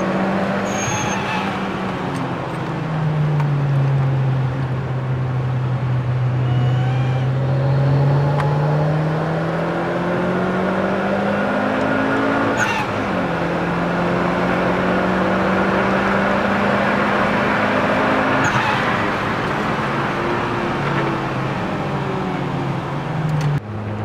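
Mitsubishi Lancer Evolution IV's turbocharged four-cylinder heard from inside the cabin at speed on a wet track, under a steady hiss of road noise. The engine note drops away, then climbs steadily as the car accelerates, falling sharply twice at upshifts, about halfway through and again about three-quarters through. The sound cuts off just before the end.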